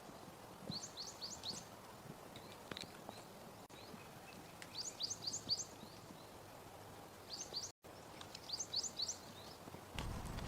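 A small songbird calling in quiet outdoor ambience: several quick series of about four short, high chirps each. Near the end a louder, low noise sets in.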